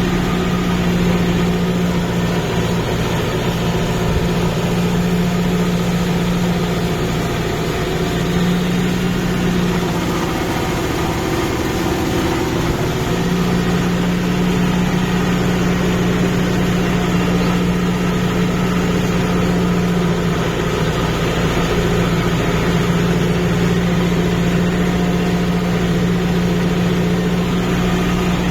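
Kubota MU5502 tractor's four-cylinder diesel engine running steadily while working a muddy paddy field. Its note wavers and drops briefly about ten seconds in, then settles back to a steady drone.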